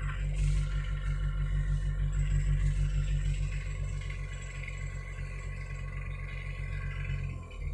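Hitachi mini excavator's diesel engine running steadily, louder in the first few seconds and easing off, with its note changing abruptly near the end.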